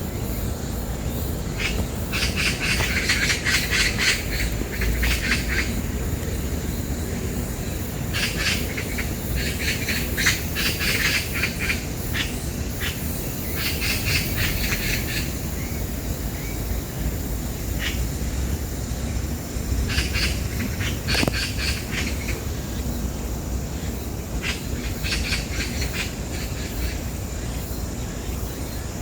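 Magpies chattering in harsh, rapid rattles in about five bouts, as they squabble in a territorial fight. A steady low rumble of wind runs underneath.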